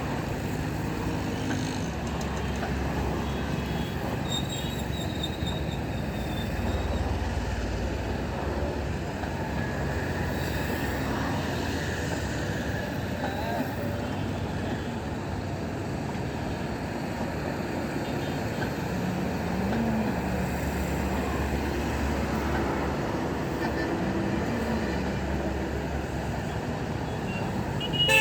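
Steady low rumble of a passenger train at a station, with people's voices in the background.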